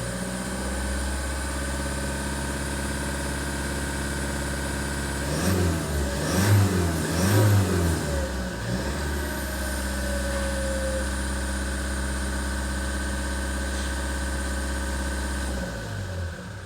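Toyota Fortuner 2.8-litre four-cylinder turbo-diesel engine idling steadily, blipped through a few quick revs about five seconds in, then settling back to idle.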